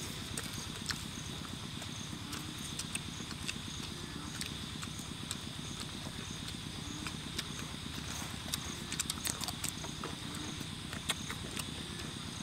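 Chewing and crunching of crispy fried pork ribs and fresh cucumber, with sharp clicks scattered throughout, over a steady high chorus of night insects.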